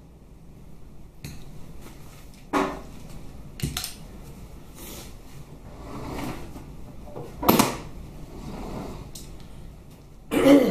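Metal hand tools and parts being handled on a workbench, clinking and scraping, with several sharp knocks, the loudest in the second half.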